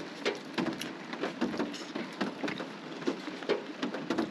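Rain falling on a minivan, raindrops pattering as many irregular sharp ticks over a steady hiss.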